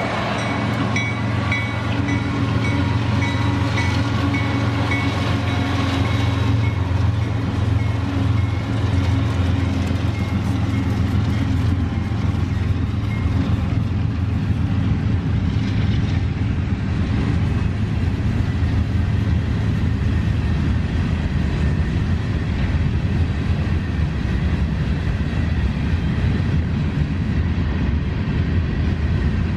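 Freight train passing, diesel locomotives and then freight cars rolling by, with a steady low rumble; an engine hum is strongest in the first several seconds and then fades.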